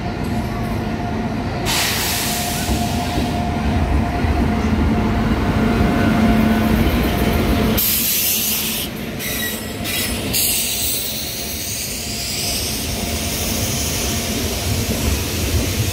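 Passenger train running on the rails: steady rumble and wheel noise, which changes abruptly about two seconds in and again about eight seconds in.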